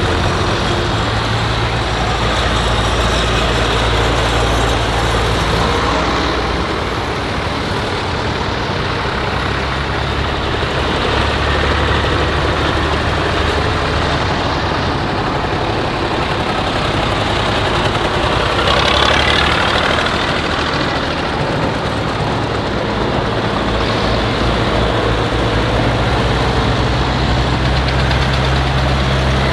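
Tractor and truck engines running as a procession of vehicles drives past, with one pass a little louder about two-thirds of the way in.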